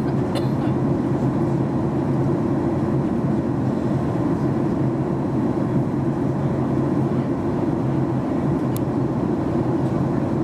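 Steady cabin noise inside a Boeing 737 MAX 8-200 on descent: the low, even rush of its CFM LEAP-1B engines and the airflow past the fuselage, with a faint click near the start and another near the end.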